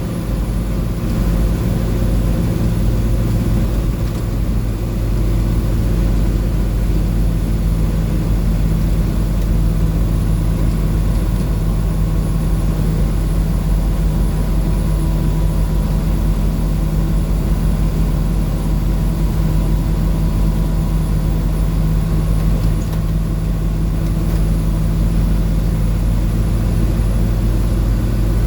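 International DT466E inline-six turbo diesel in a school bus, running steadily at highway cruise, with a constant engine drone and road noise.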